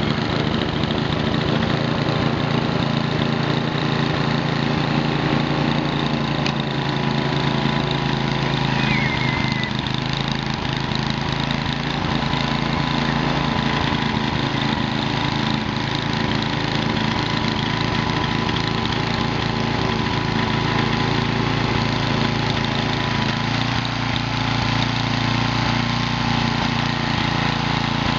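Small engine running steadily at a constant speed, its note shifting slightly about three-quarters of the way through.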